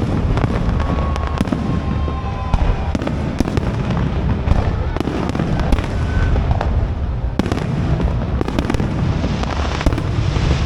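Aerial fireworks display: a dense, continuous barrage of booming shell bursts with sharp bangs and crackling.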